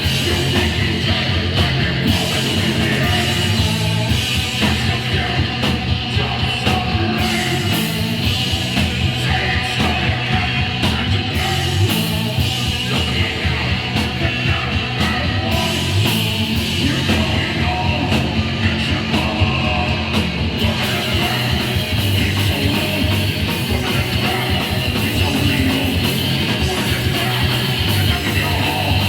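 Hardcore punk band playing live: distorted electric guitar, bass and drums going hard and continuously.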